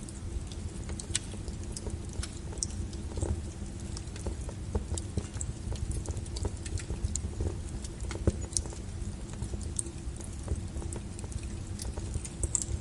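Wood fire crackling: irregular pops and snaps, a few at a time, over a steady low rumble of burning logs.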